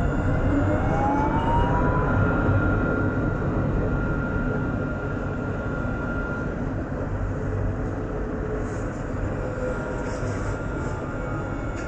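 Alstom Citadis 402 tram running, heard from on board: a steady low rumble of wheels on rail, with a motor whine that rises in pitch over the first two seconds as the tram gathers speed and a thin steady high tone above it.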